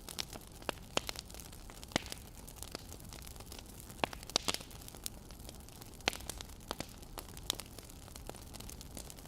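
Wood fire crackling: irregular sharp pops and snaps, a few a second, over a soft steady hiss.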